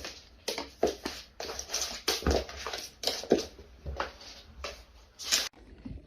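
A pet animal making a quick string of short, harsh vocal sounds, about a dozen in a row, some with a falling pitch, cut off suddenly near the end.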